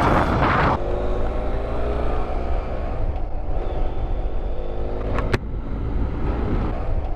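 Motorcycle engine running at a steady cruise while riding, with wind and road rumble, its pitch drifting slightly. A single sharp click about five seconds in.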